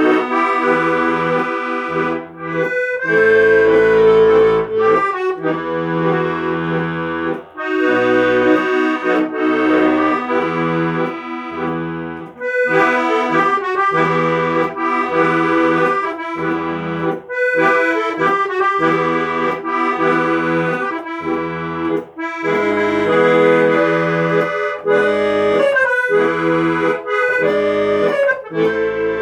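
Accordion music: a melody played over sustained chords and bass notes that change every second or two.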